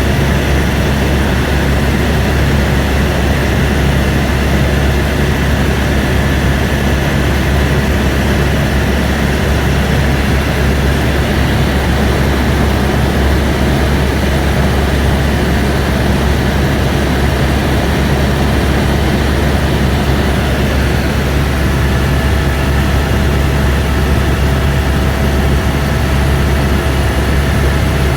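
AS350 B2 helicopter running steadily in flight, its rotor and turbine engine heard from inside the cabin as a loud, unbroken drone.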